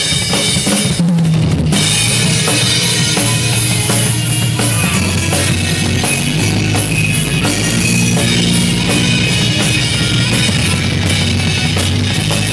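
Rock band playing the instrumental intro of a song: a drum kit with bass drum, snare and cymbals keeping a steady beat over held low bass notes.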